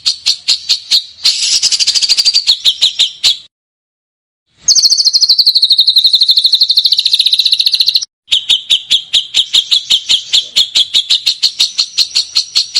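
Recorded songbird call: rapid trains of short, sharp repeated high notes, several a second. It cuts off dead about three and a half seconds in, resumes a second later as a faster, denser trill that slowly drops in pitch, breaks off briefly near eight seconds, then returns to the evenly spaced notes.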